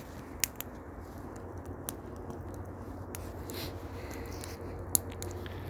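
Campfire crackling, with a few sharp pops a second or so apart over a steady low hum.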